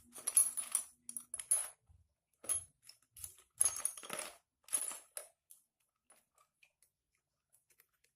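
Metal tools and small metal motorcycle engine parts clinking and knocking together during engine assembly: a run of sharp, ringing clinks over the first five seconds or so, then only a few faint ticks.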